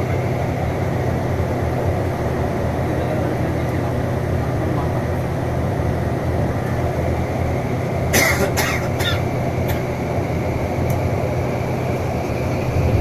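KSRTC Scania bus's diesel engine running steadily, with a constant low drone of engine and road noise. About eight seconds in, a few short noisy bursts break through for under a second.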